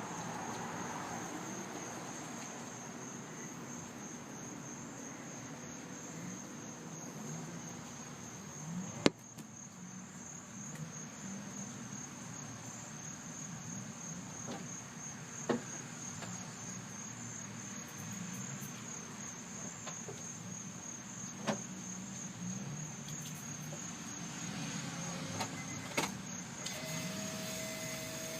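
Turbocharged Honda S2000 AP1's 2.0-litre four-cylinder engine idling with a fast, even tick that the owner calls weird. A few sharp clicks stand out, about every six seconds.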